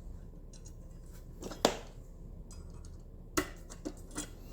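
A few light clinks and clicks of small metal parts and hand tools being handled during headlight assembly. The loudest comes about a second and a half in.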